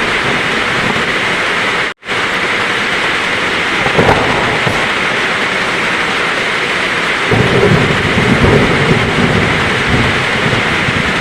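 Heavy rain pouring in a steady hiss, with a low thunder rumble building up about seven seconds in. The sound cuts out for an instant about two seconds in.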